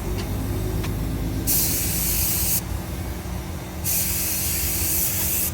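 Paint being sprayed onto the car's mirror in two hissing passes, the first about a second and a half in and the second from about four seconds in, over a steady low hum.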